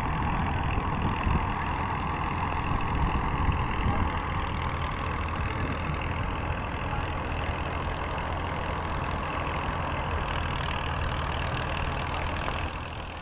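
An engine running steadily at idle, easing off slightly near the end.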